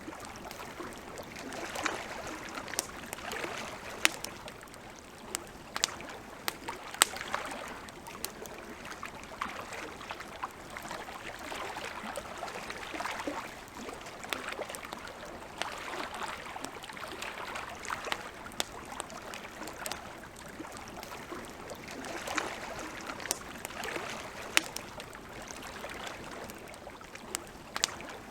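Wood campfire crackling, with sharp pops every second or so, over a soft rushing of water lapping at a lakeshore that swells and fades every few seconds.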